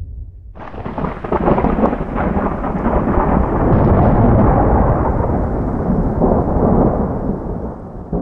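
A thunderclap: a sudden crackling crack about half a second in, which rolls into a long rumble that slowly fades over the following seconds.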